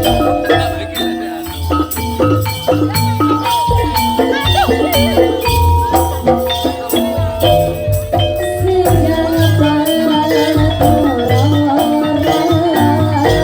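Live Javanese jaranan dor music: a gamelan-style ensemble of struck metal percussion ringing steady, overlapping notes, over repeated low drum beats and quick percussive strokes.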